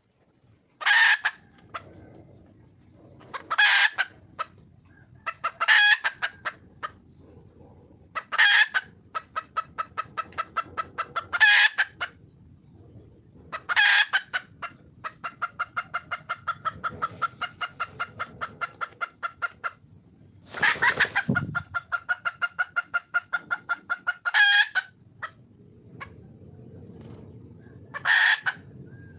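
Red junglefowl hen calling: short, loud squawking calls every two to three seconds, with long runs of rapid clucks, about five a second, between them.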